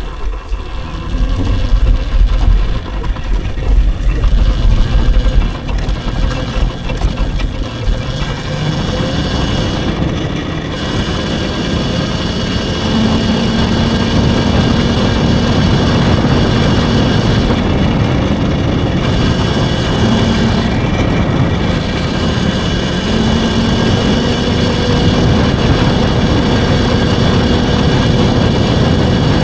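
Riding noise on an electric dirt bike: gusty wind buffeting the microphone for the first several seconds, then a steady rush of riding noise with a faint steady hum.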